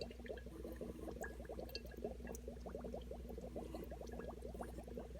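Small bubbles from an air line gurgling up through a little tank of water in a quick, irregular stream, over a steady low hum.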